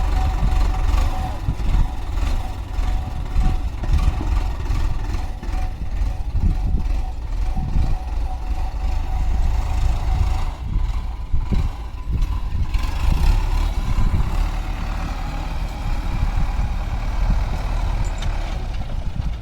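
Heavy diesel engine of a tractor or backhoe loader running, with a constant deep rumble that surges unevenly.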